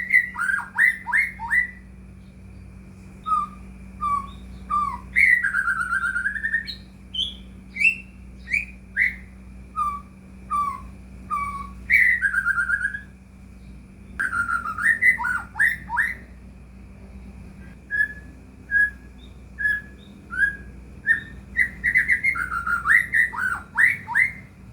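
White-rumped shama (murai batu) singing in full voice: phrases of clear whistles, fast downward-sliding notes and quick repeated series of notes, with short pauses between phrases. It is the kind of 'gacor' song played as a bait call to set caged shamas singing. A faint steady hum runs underneath.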